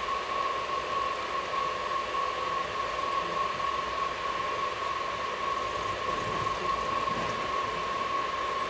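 Steady hiss inside an air-conditioned train coach while the train runs, with a constant high whine from the coach's air-conditioning and electrics.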